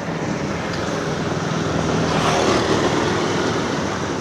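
Vehicle noise with no speech, swelling to its loudest about halfway through and easing off, as of a vehicle going by.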